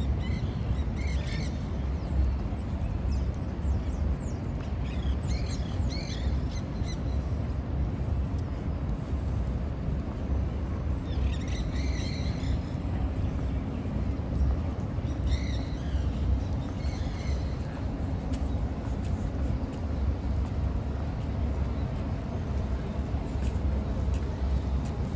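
Small birds chirping in several short bouts of high calls, over a steady low outdoor rumble of wind and distant city.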